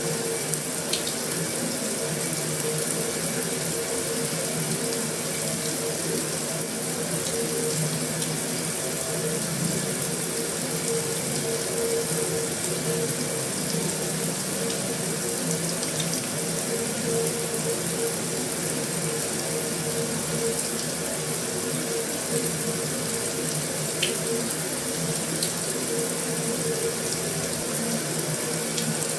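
Heavy rain falling steadily on a metal roof: a constant hiss of water, with a few sharper drop ticks standing out now and then.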